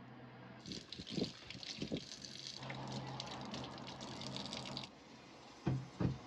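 Kitchen tap running for about four seconds, with a few knocks of dishes or jars during and after it.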